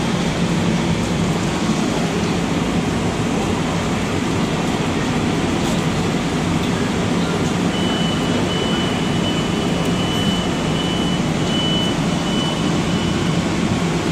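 Long Island Rail Road electric train standing at the platform with its equipment running: a loud, steady hum with a low steady tone. About halfway through, a run of high-pitched beeps sounds on and off for several seconds.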